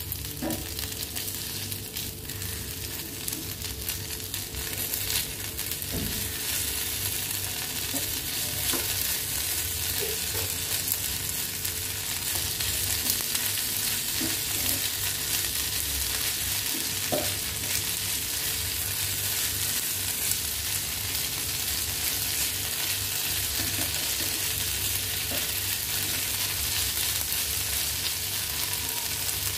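Diced fried pork sizzling in hot oil in a pan while a wooden spatula stirs it, mixing in liver spread for sisig, with a few sharp knocks scattered through the steady sizzle.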